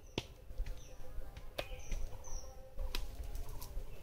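Several short, high bird chirps, with three sharp clicks spread through and a low rumble underneath.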